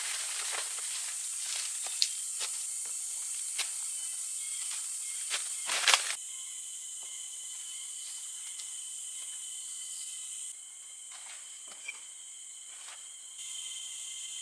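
Steady high-pitched insect chorus of forest crickets or cicadas. Scattered sharp clicks and crackles come in the first six seconds, with a cluster of louder ones around six seconds in. The background level shifts suddenly a few times.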